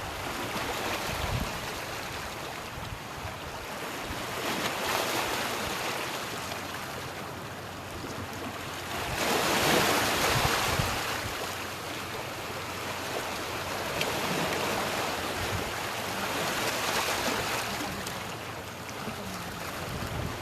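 Sea waves washing in and drawing back on the shore in slow swells, the loudest surge about ten seconds in.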